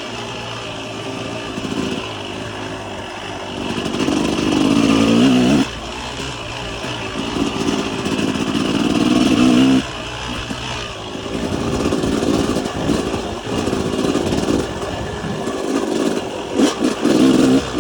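Motocross bike engine riding along, revving up in two long pulls that each cut off abruptly as the throttle closes, with short bursts of throttle near the end.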